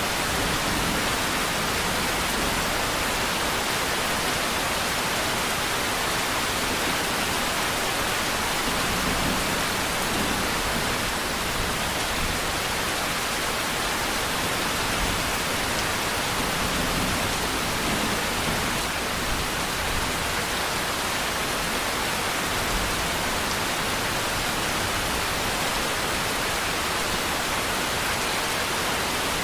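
Steady, even rain hiss with no separate drops standing out.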